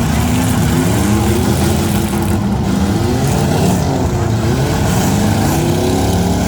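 Several eight-cylinder demolition derby car engines revving at once, their pitches rising and falling over one another.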